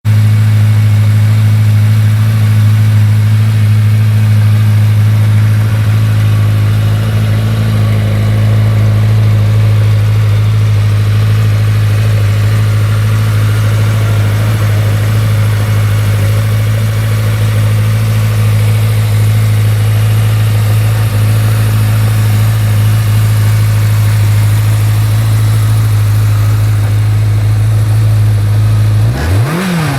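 A 1986 Yamaha YX600 Radian's air-cooled inline-four engine idling steadily at a fast, even idle. Near the end the throttle is blipped twice, the revs rising and falling quickly.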